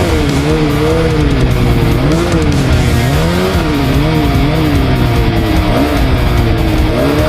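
Snowmobile engine running hard, its pitch rising and falling over and over as the throttle is worked riding through deep snow.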